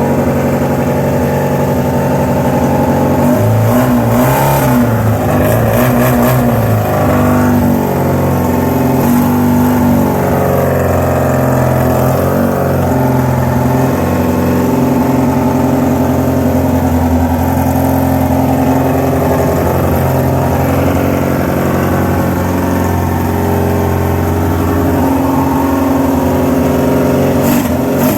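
Yamaha FZR600 motorcycle's inline-four engine running, with a few revs in the first half and then a steady idle.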